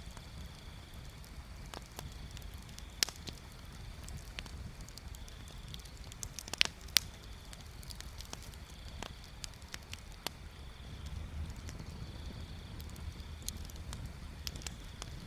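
Wood bonfire crackling: scattered sharp pops and snaps over a low steady rumble, the loudest pair of pops about six and a half seconds in.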